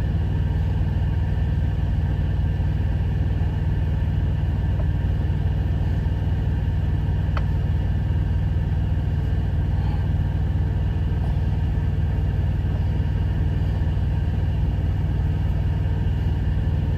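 Semi-truck diesel engine idling, a steady low rumble heard inside the cab.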